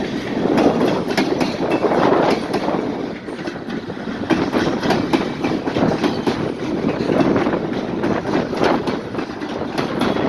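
Freight train cars rolling past, a steady rumble with repeated clacks of the wheels over the rail joints.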